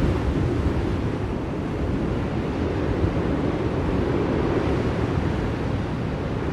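Blizzard wind blowing steadily, a deep, even rushing noise that swells slightly midway.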